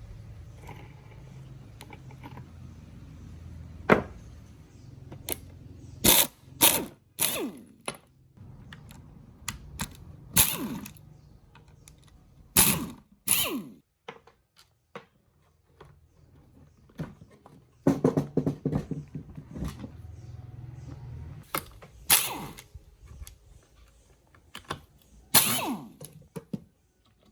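Irregular metal clinks and knocks as chainsaw parts and hand tools are handled and set down, several strikes ringing briefly, over a low steady hum that fades out about halfway through.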